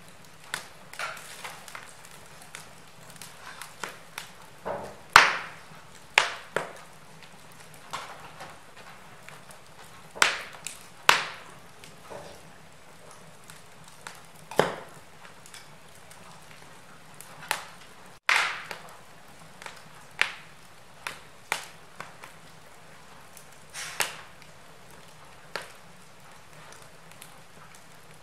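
Wood fire burning in a fireplace: irregular sharp crackles and pops over a soft steady hiss, a few pops much louder than the rest.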